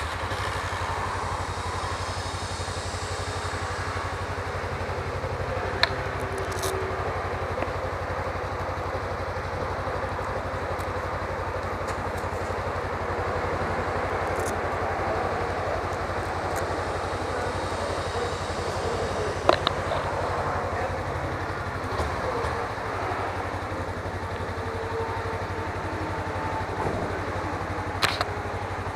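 Suzuki V-Strom 250's parallel-twin engine running under way, mixed with a steady rush of riding wind on the camera microphone. A few brief sharp clicks stand out, near six seconds, near twenty seconds and near the end.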